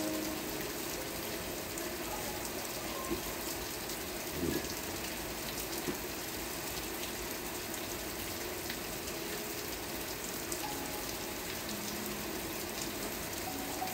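Steady rain falling, with a few sharper drop hits about three, four and a half, and six seconds in.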